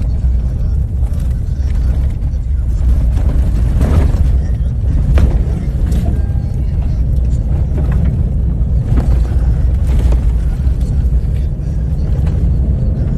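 A vehicle driving, heard as a steady low rumble with wind buffeting the microphone. A few sharp knocks come through at intervals.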